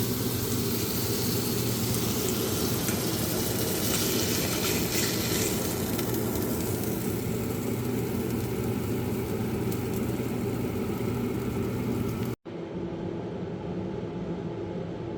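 A hamburger patty frying in a pan, a steady sizzle over a low kitchen hum. About twelve seconds in, the sizzle cuts off abruptly and only a quieter steady hum remains.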